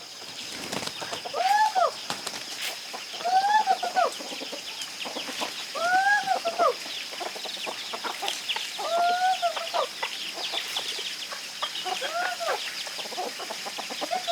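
Chickens calling: a drawn-out call that rises and falls in pitch, repeated six times about every two to three seconds. Many short high cheeps and a steady high-pitched tone run beneath.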